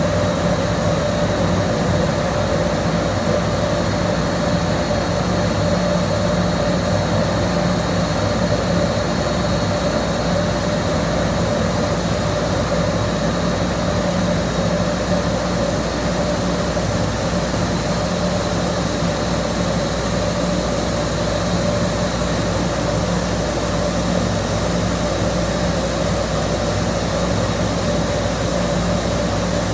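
Boiler under fire test: the burner and its blower run in a steady roar, with a steady mid-pitched whine and a faint high whistle over a low hum.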